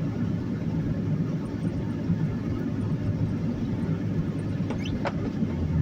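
Steady low rumble of a car's engine and tyres heard from inside the cabin while driving on a snowy highway.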